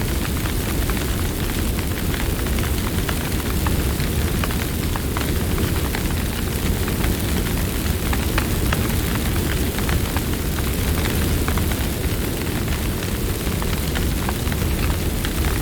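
Campfire burning: a steady low rumble under many small, quick crackling pops.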